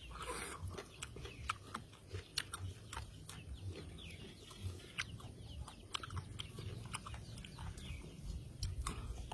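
Close-up wet chewing and mouth smacking from eating raw fish with papaya salad, with many irregular sharp clicks.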